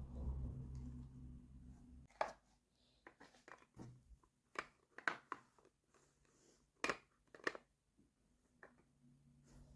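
Small plastic toy pieces clicking and tapping as they are handled, about eight sharp irregular clicks. A steady low hum stops about two seconds in and comes back near the end.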